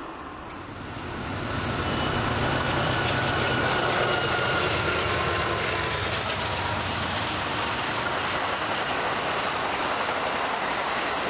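N scale model passenger train, pulled by two DCC locomotives, running along the track with wheels rattling on the rails and a faint motor whine, growing louder over the first two seconds and then holding steady.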